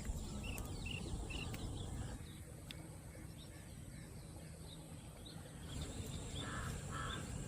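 Small birds chirping over and over against a low, steady outdoor rumble, with two harsh bird calls near the end.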